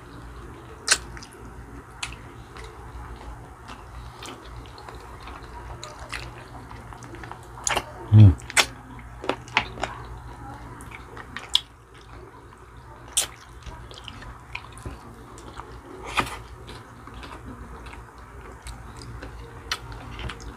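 Close-up eating sounds of chicken feet adobo eaten by hand: wet chewing, lip smacking and sucking at the small bones, with sharp clicks scattered throughout. About eight seconds in comes the loudest moment, a short low hum from a voice falling in pitch.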